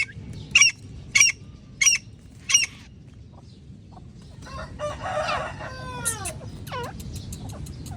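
Black francolin calling: four sharp, high, grating notes about two-thirds of a second apart, then a busier burst of calls with falling glides about five seconds in, followed by two more sharp notes.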